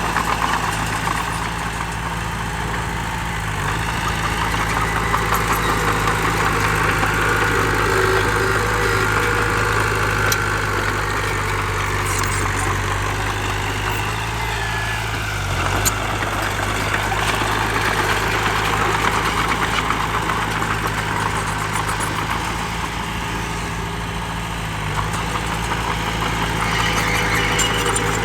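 Heavy diesel engine of earthmoving machinery running steadily, with mechanical noise over its low drone and brief slight dips in its note a few times.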